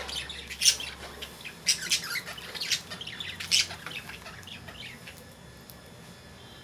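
Lovebirds in a cage giving short, shrill squawks and chirps, many in quick succession for the first four seconds, then thinning out and growing quieter.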